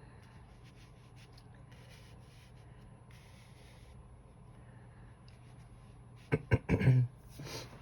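Soft rustling and sliding of tarot cards being handled on a table over a faint steady hum, then a short cluster of sharp clicks and taps about six seconds in and one more near the end.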